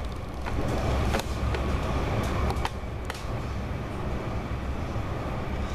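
Passenger train running at speed, heard from inside the carriage: a steady low rumble with a few scattered sharp clicks.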